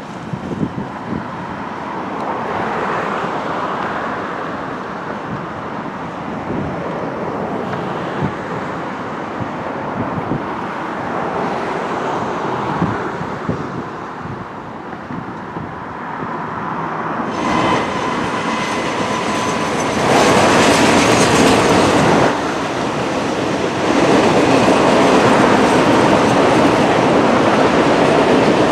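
Freight train cars rolling past with wheel clatter over the rail joints. After an abrupt cut about two-thirds of the way in, a Norfolk Southern Roadrailer train led by a GE C44-9W locomotive passes, louder, with heavier rolling rumble and wheel noise.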